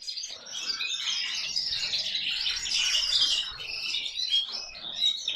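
Canaries in a bird room chirping and twittering continuously, many high, quick calls overlapping without a break.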